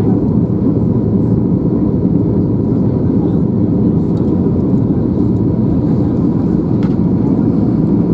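Steady low rumble inside the cabin of an Airbus A321 on the ground after landing: the engines and cabin air system running evenly as it taxis.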